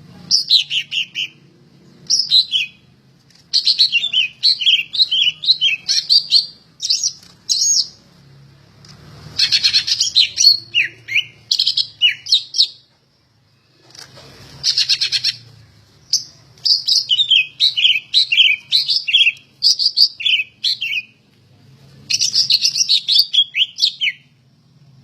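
Greater green leafbird (cucak ijo) in full song: phrase after phrase of fast, varied whistled and chattering notes, broken by short pauses and one silence of about a second near the middle.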